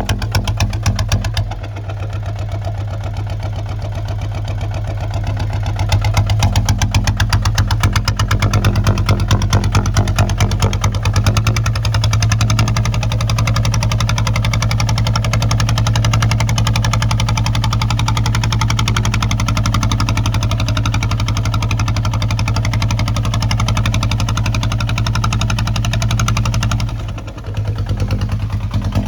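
Kubota ZT155 single-cylinder diesel engine running steadily with a rapid, even beat, working a plow. It dips briefly near the end, then picks up again.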